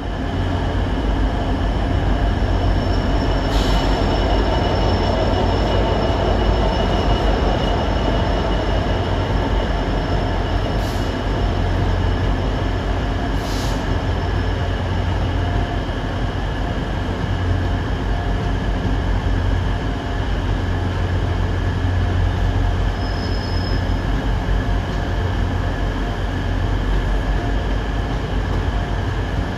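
A GB Railfreight Class 66 diesel hauls a freight train of covered hopper wagons past. It makes a steady heavy rumble of wheels on rail, with high steady wheel squeal over it and a few sharp clicks from the wheels.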